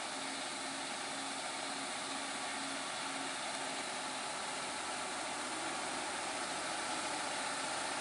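A truck engine running steadily, faint behind an even hiss of noise.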